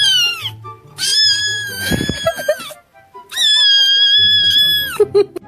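Cat meowing over background music: a short meow at the start, then two long, drawn-out high meows of about a second and a half each.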